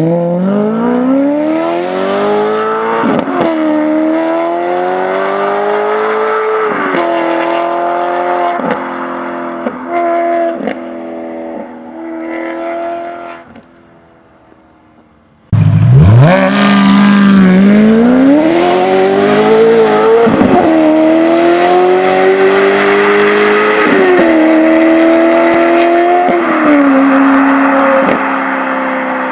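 Maserati Quattroporte's 4.2-litre V8 through Larini sports rear silencers, accelerating hard from a launch. The pitch climbs and drops sharply at each DuoSelect gear change. The first run fades away about 13 seconds in, and after a short quieter gap a second launch pulls through several more upshifts.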